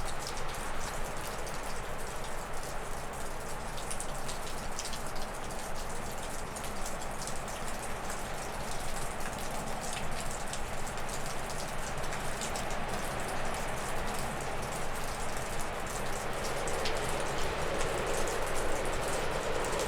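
Wind gusting through spruce and birch trees, a steady rushing that swells near the end. Meltwater dripping off a roof from melting snow makes quick, irregular ticks throughout.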